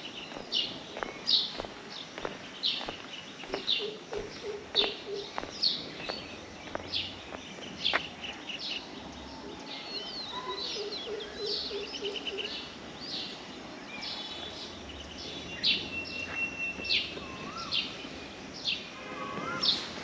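Birds chirping: a steady run of short, sharp high calls, about one to two a second, over light background noise.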